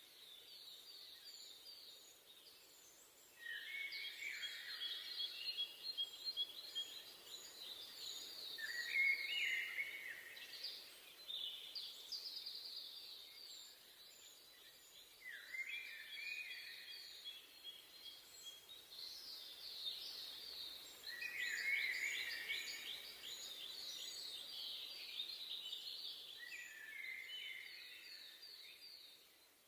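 Several songbirds singing at once, overlapping fast trills of rapidly repeated notes and short falling phrases, over a faint steady hiss.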